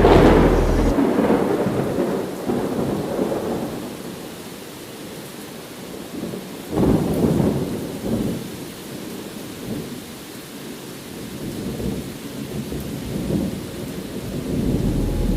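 Thunderstorm: a thunderclap at the very start rolls away over a few seconds, a second rumble swells about seven seconds in, and weaker rolls follow near the end, all over steady rain.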